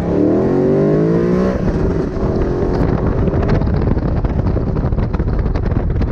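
BMW M3 engine accelerating hard, its pitch climbing for about a second and a half. After that, rough wind buffeting on the microphone covers most of the engine sound.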